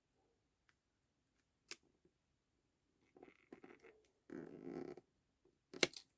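Paper and card being handled and pressed at a craft table: a single sharp tap, then soft rustling and a louder rustle of card, and a couple of sharp clicks near the end.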